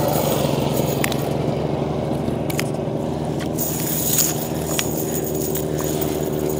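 A small engine running steadily at an even speed, with a few light clicks and knocks over it.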